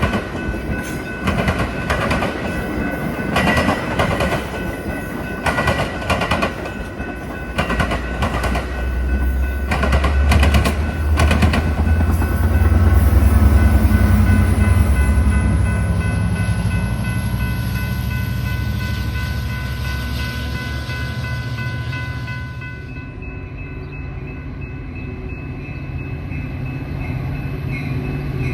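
A train passing close by. For about the first eleven seconds its wheels click over rail joints, then a heavy low rumble swells up and slowly eases off. About two-thirds of the way in the sound changes abruptly to a steadier, quieter low hum.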